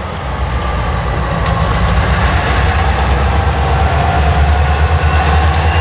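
Freight train rolling past, a steady heavy low rumble of locomotive and railcars on the rails, with a thin high whine that dips in pitch and slowly climbs back.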